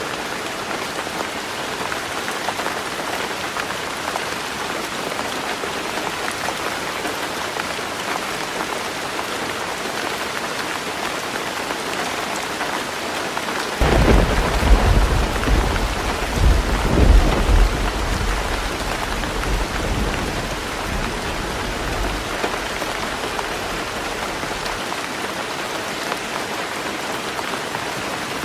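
Heavy rain falling steadily on a roof. About halfway through, thunder breaks in with a deep rumble that swells twice and fades away over about ten seconds.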